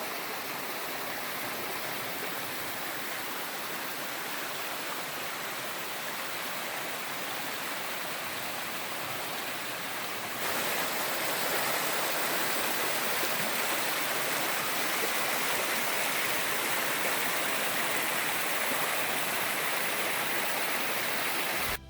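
Steady rush of flowing water from a creek running out into Lake Superior, with no distinct splashes or breaks. The sound jumps abruptly louder about halfway through, then holds steady.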